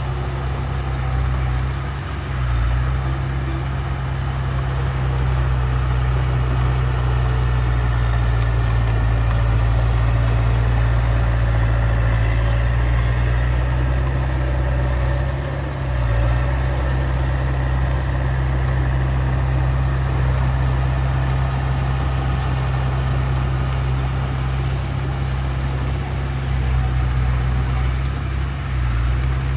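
Heavy diesel engine of earthmoving machinery running steadily with a deep rumble, dipping briefly three times.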